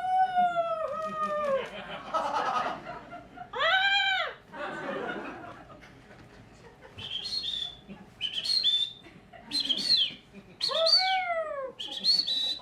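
Bird calls: three long calls that swoop up and down in pitch, with quick high chirps between them.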